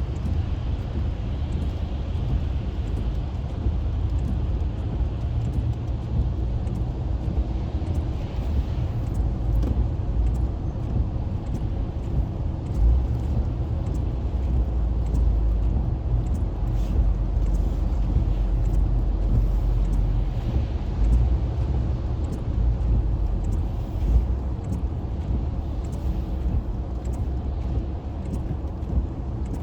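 Steady low rumble of a car travelling on a wet highway, heard from inside the cabin: engine and tyre noise with a light hiss above it.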